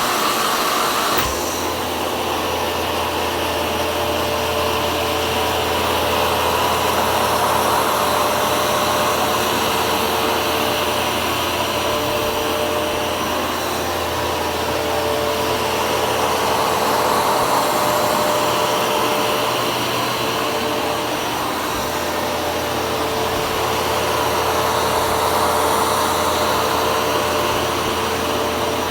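A Hoover carpet shampooer running loud and steady: a whining suction-motor noise, with a lower hum joining about a second in.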